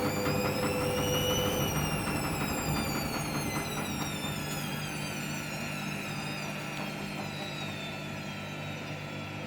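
Hoover washing machine's motor whining up in speed for about a second and a half, then slowly winding down over a steady low hum: the first spin of a cotton 90 wash cut short by the suds lock.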